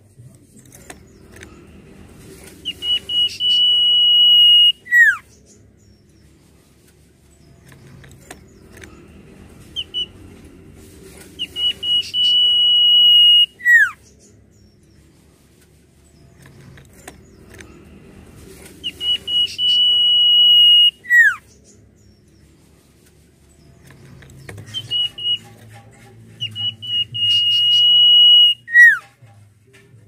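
Common iora whistling its song four times. Each phrase is a few short notes leading into a long, steady high whistle that swells for about two seconds, then ends in a quick downward slur.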